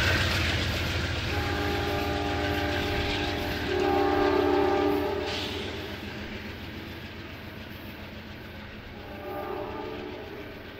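Amtrak Downeaster passenger train running away along the track, its low rumble fading. Its multi-tone horn sounds a long blast from about a second in to about five seconds, then a shorter, fainter blast near the end.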